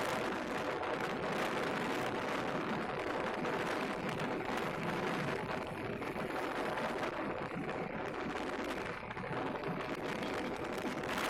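Wind rushing over the microphone of a moving motorcycle, a steady loud buffeting, with the engine running underneath as a faint steady hum.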